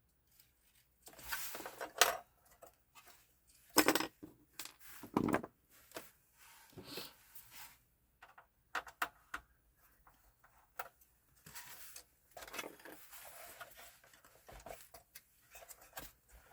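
Irregular clicks, knocks and rattles of PlayStation 4 console parts being handled and set down during a teardown, with a few sharper knocks about 2, 4 and 5 seconds in.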